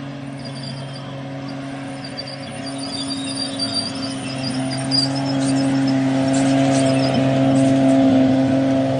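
Aston Martin Vulcan's 7.0-litre V12 running at a steady low speed as the car rolls slowly past, growing steadily louder as it comes close.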